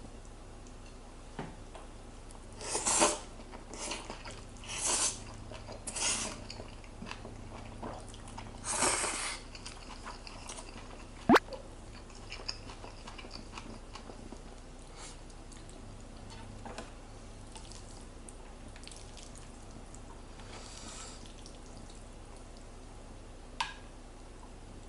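Wet, squishy sounds of Jjapaghetti noodles in black bean sauce: about five short bursts in the first ten seconds. A sharp click comes near the middle and a smaller one near the end.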